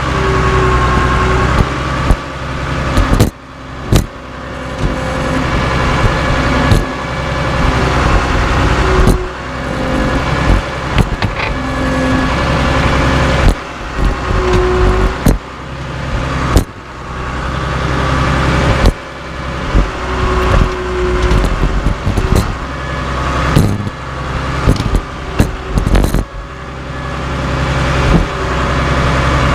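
Cat D3C bulldozer's diesel engine running steadily, with repeated sharp metallic bangs and clanks every second or two as scrap steel wheels are crushed under the machine.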